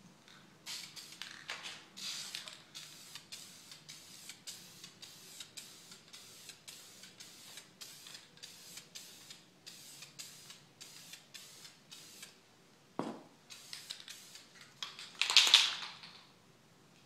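Spray paint can hissing in many short bursts, about two a second, as red paint is misted onto a foam fuselage. About thirteen seconds in there is a single knock, then a few more bursts and one longer, louder spray near the end.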